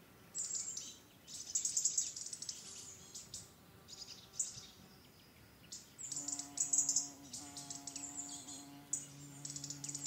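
Faint songbirds chirping and twittering in short bursts, joined about six seconds in by a low steady hum of held tones.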